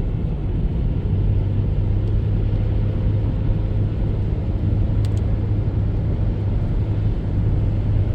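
Steady low rumble of a car driving, engine and road noise heard from inside the cabin, with a faint click about five seconds in.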